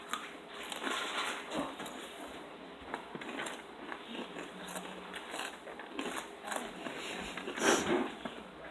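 Crunchy cheese curls being chewed close to the microphone: an irregular run of small crunches and crackles, with a louder burst about three-quarters of the way through.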